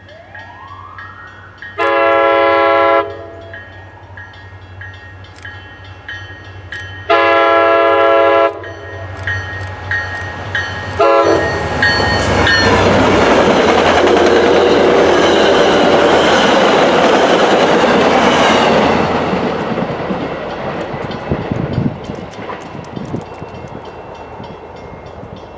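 Commuter train locomotive horn sounding two long blasts and a short one, the grade-crossing pattern, then the train passing close and loud for several seconds with wheels clattering on the rails before fading away.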